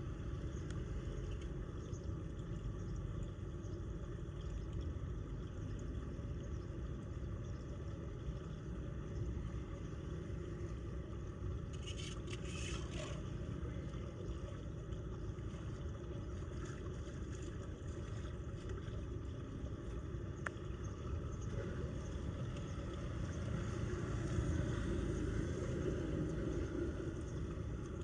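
Floodwater rushing down into a storm drain: a steady, low rumbling rush of water. A brief sharper noise comes about twelve seconds in, and the rush grows louder near the end.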